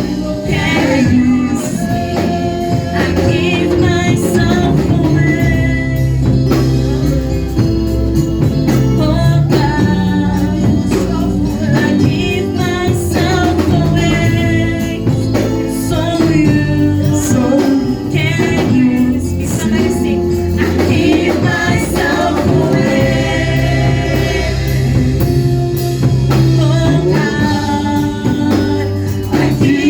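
Gospel worship singing by a group of voices with instrumental backing, a steady bass and percussion.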